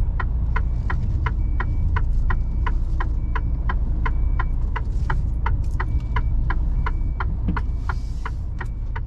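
Mercedes Actros truck cab with the diesel engine running low and steady, over an even ticking of about three clicks a second from the indicators, and a faint short high beep repeating about once a second.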